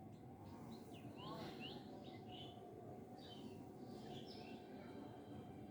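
Birds chirping faintly in the background, a string of short chirps, some sliding in pitch, over a low steady background hum.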